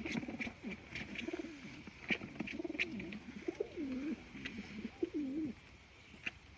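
Racing homing pigeons cooing: a run of low, wavering coos that rise and fall, with scattered light clicks and taps. The cooing stops about a second before the end.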